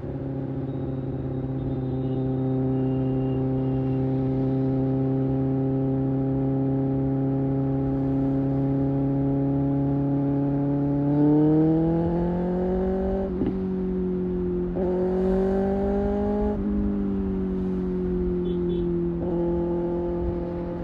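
Kawasaki ZX-6R's 636 cc inline-four engine cruising at steady revs with wind rush, then revving up as the bike accelerates about halfway through, the note broken twice briefly before it eases off a little and holds steady.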